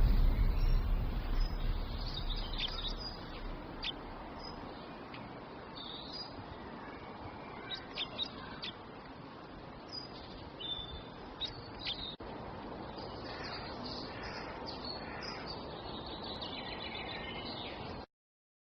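Small birds chirping and calling, in many short, high chirps over a steady background hiss. The sound cuts off suddenly near the end.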